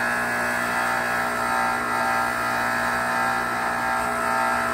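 Log splitter's motor running steadily: a constant hum with several fixed tones and no change in pitch.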